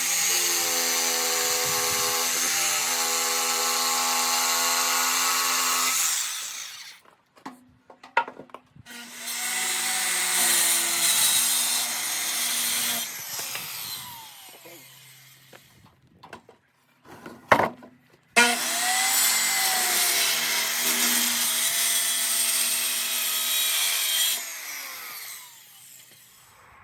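Handheld power tool cutting wood in three long runs of steady motor whine, with short pauses and a sharp click between them.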